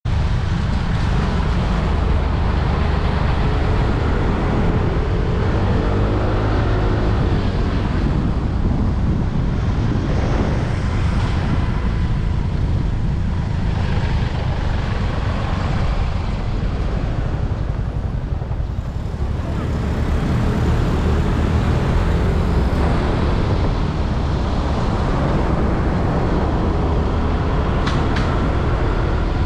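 Motorbike riding through city traffic: a steady low rumble of engine, wind and road noise, with a brief rising engine note about six seconds in.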